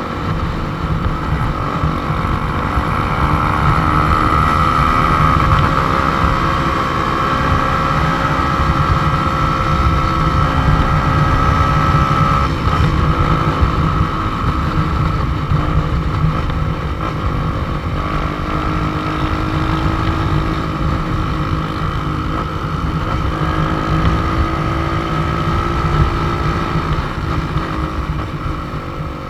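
Motorcycle engine running at riding speed, its note rising and falling slowly with a change about a third of the way in, under heavy wind rush on the microphone.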